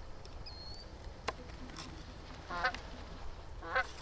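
Geese honking as a flock comes in over the decoys: two short honks about a second apart near the end, with a brief high whistle near the start.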